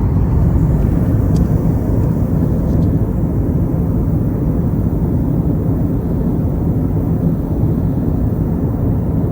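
Steady in-flight cabin noise inside an Airbus A321neo airliner: a constant low rumble of engines and airflow.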